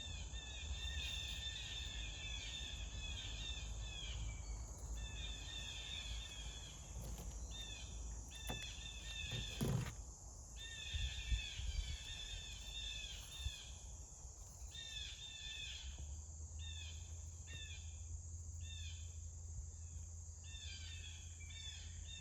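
Songbirds singing loudly in repeated bouts of rapid chirps a few seconds long, over a steady high-pitched drone. A couple of soft knocks come about ten seconds in.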